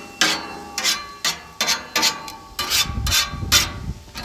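Metal spatulas scraping and turning onions and mushrooms on a flat-top griddle, in quick repeated strokes about two or three a second.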